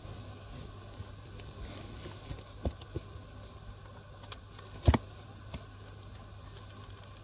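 Light patter and scattered small knocks, with one louder thump about five seconds in, over a steady low hum.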